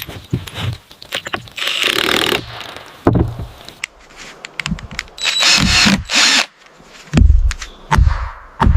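Power drill running in short bursts, mixed with knocks and clatter of construction work, and several heavy thumps near the end.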